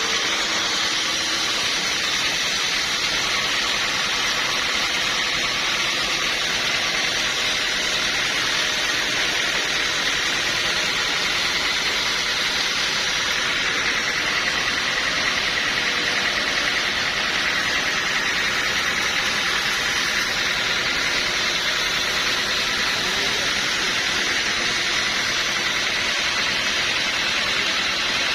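Sawmill saw running steadily, a loud, even, hissing machine noise. A faint steady whine sits over it for a stretch in the middle.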